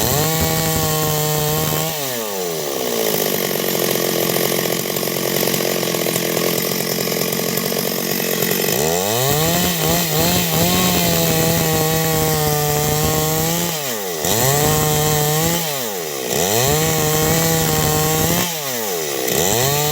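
Stihl MS 382 two-stroke chainsaw cutting wood into boards. About two seconds in, its engine note drops under load and holds lower for some seven seconds, then climbs back to a high pitch. In the second half it sags and recovers three more times.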